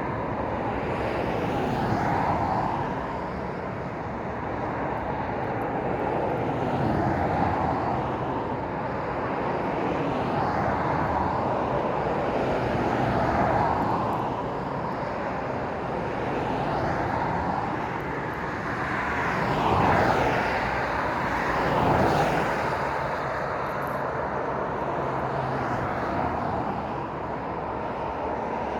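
Road traffic, cars and lorries, passing one after another at speed. Tyre and engine noise swells and fades with each vehicle, and the two loudest close passes come about twenty and twenty-two seconds in.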